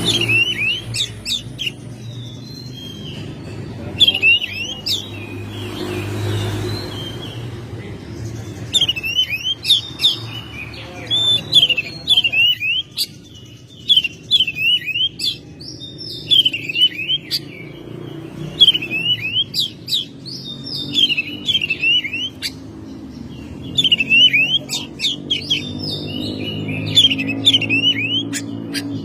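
Oriental magpie-robin (kacer) singing vigorously: repeated phrases of sharp whistled notes and quick trills, one every second or two, with a steady low rumble underneath.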